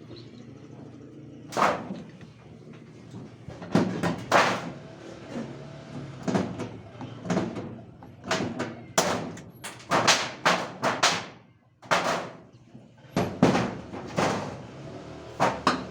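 An irregular series of sharp knocks and bangs, one at a time, starting about a second and a half in and coming faster from about four seconds on, each with a short ringing tail. They sit over a steady low hum.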